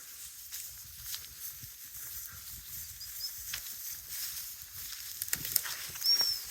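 Rustling and footsteps through dry brush, with a steady hiss and scattered small clicks. A short high chirp comes near the end.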